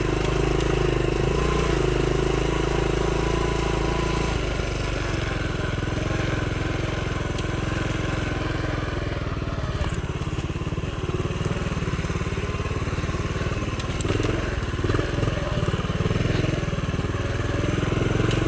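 Honda CT70's small air-cooled single-cylinder four-stroke engine running as the minibike is ridden. The engine note is steady for the first few seconds, then turns uneven, with the revs rising and falling in the last few seconds.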